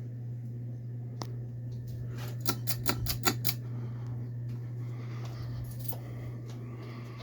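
Westinghouse InstaLock 42-inch ceiling fan running with a steady low motor hum. A single click comes a little over a second in, and a quick run of about eight sharp clicks follows around two and a half to three and a half seconds in.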